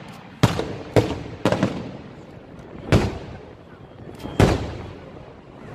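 Aerial firework shells bursting in a display: about five sharp bangs at uneven intervals, each trailing off in a rumble over a second or so. The loudest comes about four and a half seconds in.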